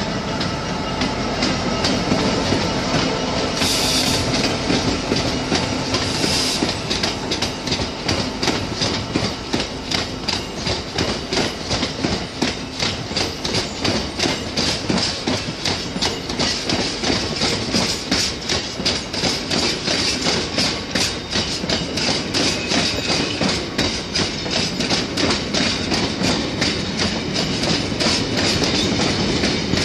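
Class 66 diesel-electric freight locomotive, with its two-stroke V12 diesel, running past. Its engine note fades over the first few seconds as a long train of hopper wagons follows with a rapid, steady clickety-clack of wheels over the rail joints. Two short high hisses come about four and six seconds in.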